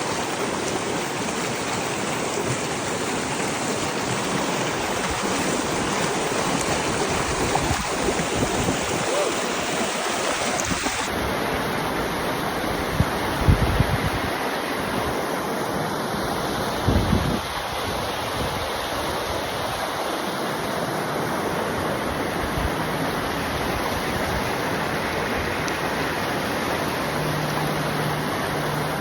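Mountain stream rushing steadily, with two brief low thumps on the microphone about halfway through.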